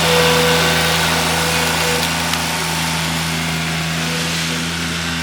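An engine running at a steady idle, with an even, unchanging hum.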